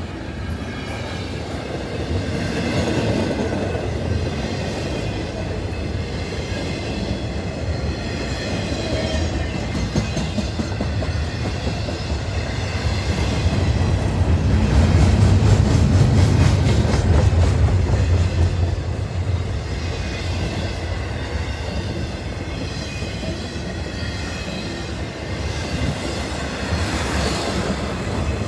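Double-stack intermodal freight cars rolling past on a long freight train: a steady rumble of steel wheels on rail with rapid clacking over the rail joints, swelling loudest about halfway through.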